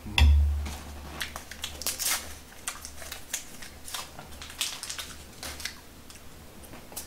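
Close-miked chewing of a mouthful of bibimbap: a run of irregular wet clicks and soft crunches. A low thump sounds just after the start.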